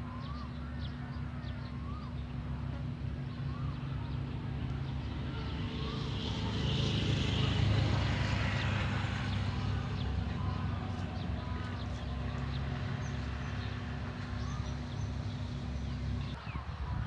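Outdoor garden ambience: a steady low motor hum, with engine noise swelling and fading as something passes, loudest about halfway through. Small birds chirp now and then over it, and the steady hum stops shortly before the end.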